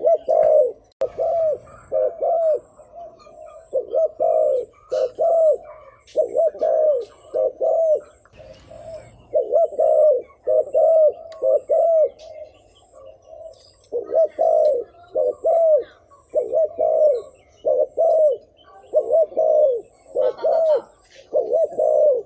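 Spotted dove cooing over and over: short, low, arched coos in quick runs, with a brief pause a little past halfway. This is the rapid 'thúc gù' cooing used as a lure call to draw in wild doves.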